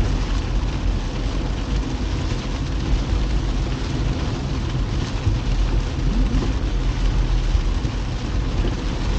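Heavy rain on a moving car, over a steady low rumble of tyres and engine.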